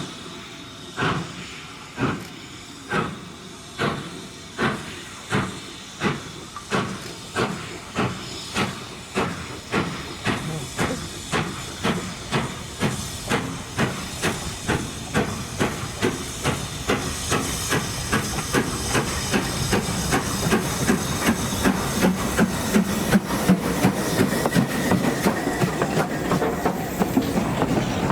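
Steam locomotive starting away and accelerating: sharp exhaust beats about one a second at first, quickening steadily until they run together, with a steam hiss underneath, getting louder near the end as the train draws closer.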